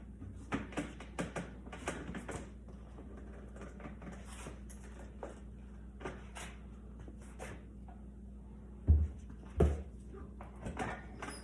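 Motorcycle tire being worked onto its rim by hand: scattered clicks and knocks of tools against rim and rubber, busiest in the first couple of seconds, with two heavy thumps about nine and ten seconds in.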